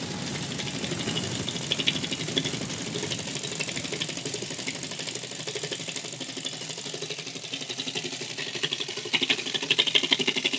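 Small homemade model engine running with a fast, even clatter of rapid ticks, growing louder and more uneven near the end.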